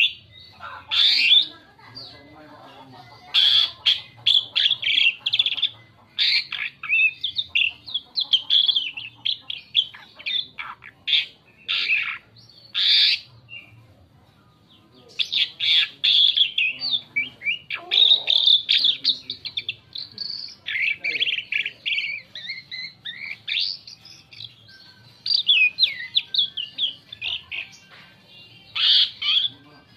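Asian pied starling singing a varied song in bursts of rapid chattering notes and whistled glides, with a short pause about halfway through.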